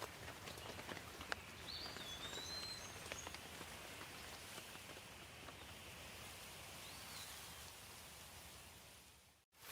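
Soft, steady rain with scattered drips and a few short bird chirps. The sound fades out briefly to silence near the end and then comes back.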